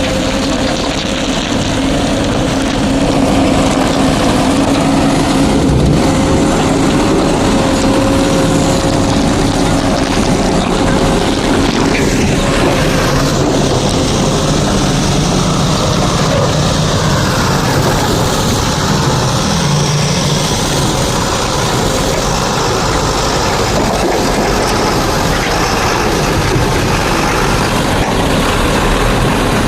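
JCB 3DX backhoe loader's diesel engine running loud and continuous while loading. A steady whine in the first half gives way, about halfway through, to a lower, rougher engine note.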